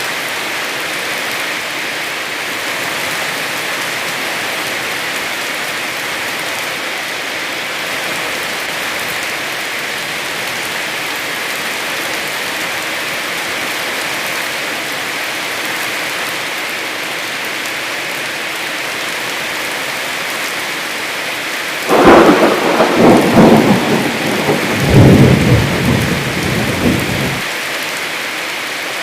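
Heavy rain falling in a steady hiss; about three quarters of the way through, a thunderclap breaks in suddenly and rumbles in two surges for about five seconds before fading back under the rain.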